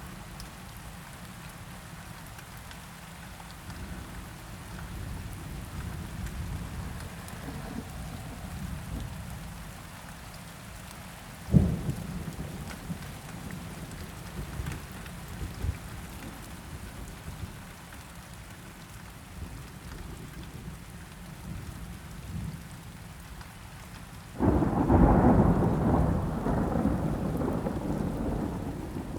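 Steady rain with thunder: a sharp thunderclap about a third of the way in, and a louder, longer rolling thunder rumble starting near the end.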